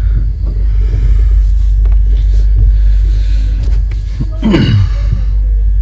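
Steady low rumble of a passenger train carriage running, with a brief falling tone about four and a half seconds in.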